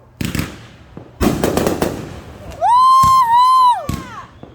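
Consumer fireworks going off: a sharp crack, then about a second in a burst of several quick sharp reports with crackle. Past the middle comes a loud, shrill held note lasting over a second, pitched high and gliding down at its end.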